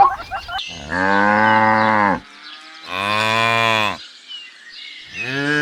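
Cow mooing: two long moos of about a second each, with a third beginning near the end.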